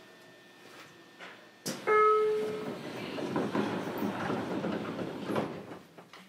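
Sounds inside a JR Kyushu 303 series electric train car: a sudden knock, a short pitched tone, then a few seconds of rushing noise that fades away.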